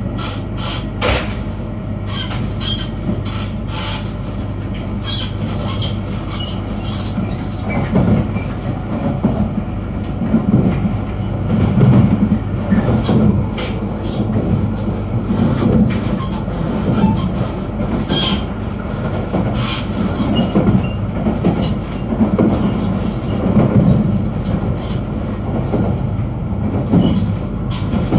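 E3-series Yamagata Shinkansen train running on the conventional line, heard from inside a passenger car: a steady low rumble with frequent clicks and knocks of the wheels on the track. It grows louder and rougher from about eight seconds in.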